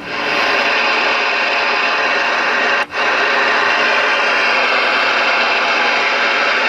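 Galaxy DX-939F CB radio receiving open-band static through its speaker: a loud, steady hiss that cuts out for an instant about three seconds in.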